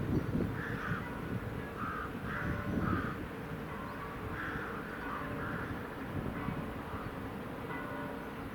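Repeated short bird calls, about six in the first five or six seconds, over a steady low rumble.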